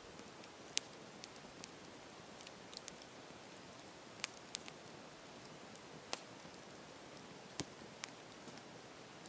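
Campfire crackling: a faint steady hiss with irregular sharp pops, about ten of them, the loudest less than a second in.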